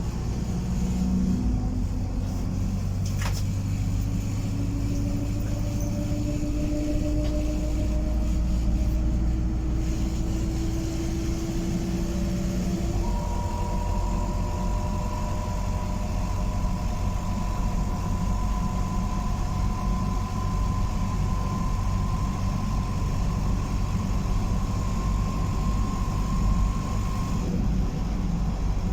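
Optare Solo SR single-deck bus heard on board while under way: a steady low engine and road rumble with a whine that slowly rises in pitch. About halfway through, a higher whine takes over and climbs slowly, as the bus gathers speed.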